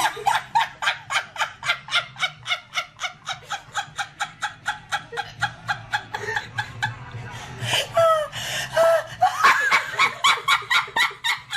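Rapid, rhythmic laughing, about five short pulses a second, breaking off briefly a little past the middle and then starting again.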